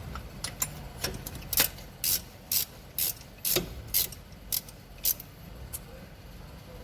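Ratcheting socket wrench tightening a spark plug into the engine head: about a dozen sharp clicks, roughly two a second, that stop near the end.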